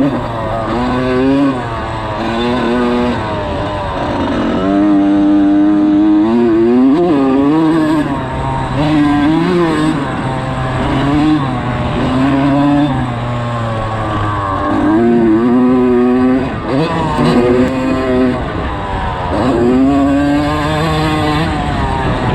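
Motocross dirt bike engine revving hard, its pitch repeatedly climbing and dropping back as the rider opens and closes the throttle and shifts around the track.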